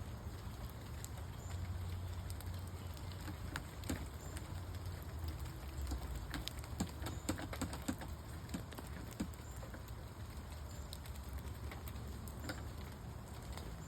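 Light rain pattering, with scattered sharp taps and clicks, most of them in the middle of the stretch, over a steady low rumble.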